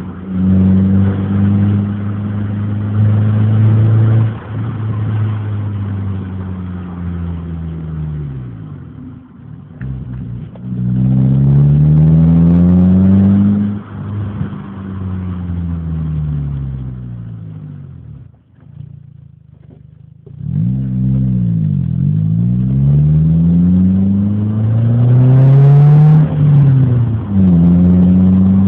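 Renault Clio's exhaust as the car drives and accelerates through the gears, the engine note climbing and then dropping back at each change. About two-thirds through it eases off almost to nothing, then pulls away and climbs again.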